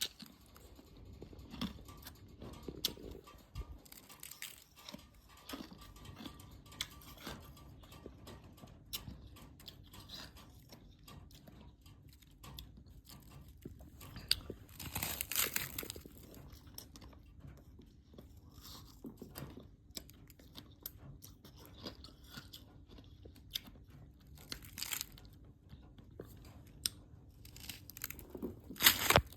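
Ice being bitten and chewed close to the microphone: a run of small crackling crunches, with louder bites about halfway through, about 25 seconds in and near the end.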